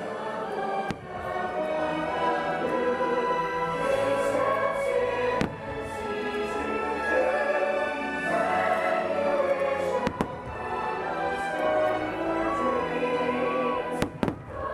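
Orchestral show music with a choir singing, held chords, and aerial firework shells bursting four or five times over it, two of them in quick succession near the end.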